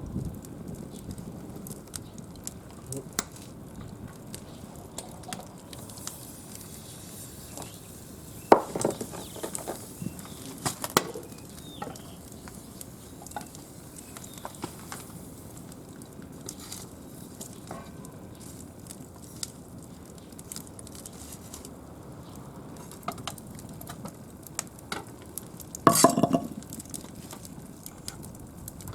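Wood fire crackling in a brick kamado stove under a cooking pot, with a steady sizzle and scattered pops. A few sharp knocks come about a third of the way in, and a louder clatter comes near the end.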